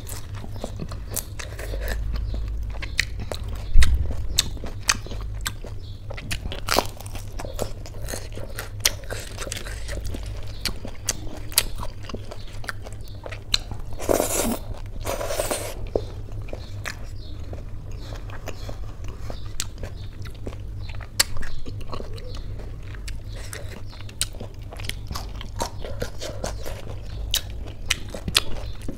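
Close-up eating sounds: crisp fried pakoda being bitten and chewed, with many small sharp crunches. About halfway through come two louder, wetter mouthfuls as soft khichdi is eaten off the fingers.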